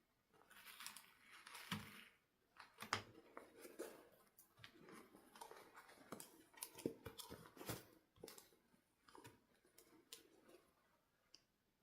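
Faint handling of toy packaging and parts: irregular crinkles, rustles and sharp clicks of plastic and cardboard, with a few louder snaps in the middle.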